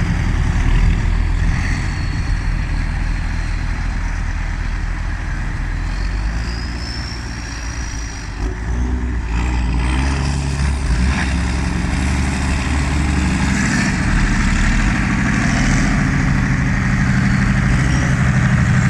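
Straight-piped Massey Ferguson tractor diesel engines running under load while rolling silage, loud and steady, with a dip about eight seconds in and a high whistle rising about six seconds in.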